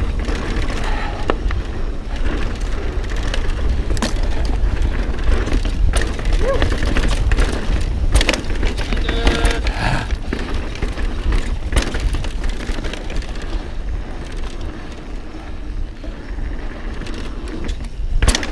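Mountain bike riding over a dirt trail: constant tyre and wind rumble, with repeated sharp clatters from the bike's chain and frame rattling over bumps.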